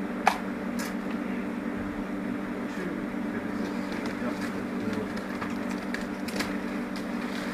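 Massed buzzing of a disturbed honeybee colony: a steady low hum, with one sharp knock just after the start.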